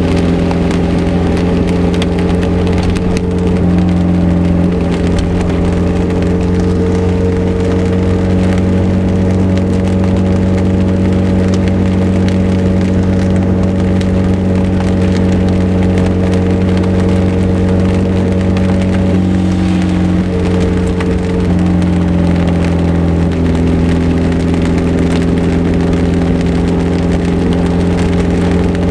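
Morgan 4/4 roadster's engine droning at a steady cruise while driving, its pitch stepping a few times, under a dense crackle of heavy rain hitting the car.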